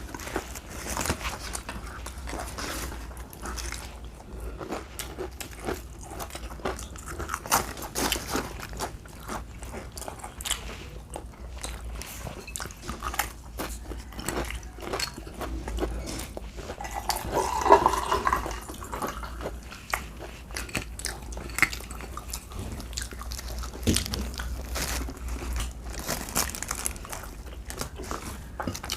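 Close-miked mukbang eating: steady chewing and biting, with many small wet mouth clicks and crunches over a low steady hum. A louder, fuller mouth sound comes about two-thirds of the way through.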